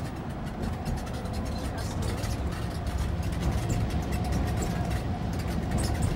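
Motorhome driving on the highway: a steady engine and road rumble with light rattling clicks.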